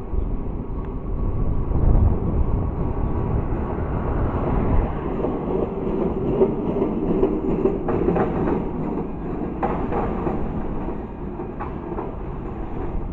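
Tram running along street track: a heavy low rumble that gives way to a steadier hum, with a few sharp clicks from the wheels over the rails.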